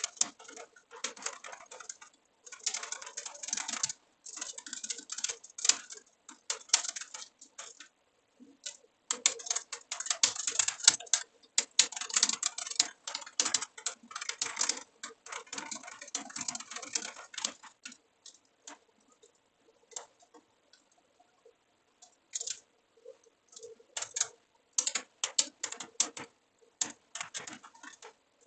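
Typing on a computer keyboard: quick runs of key clicks with short breaks, thinning to scattered keystrokes and pauses for a few seconds past the middle, then picking up again.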